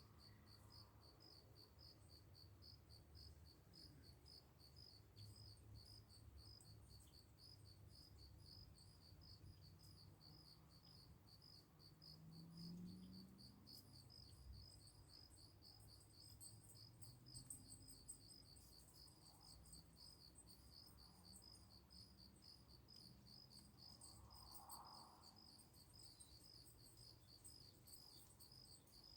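Crickets chirping steadily: a faint, high-pitched, evenly repeating pulse.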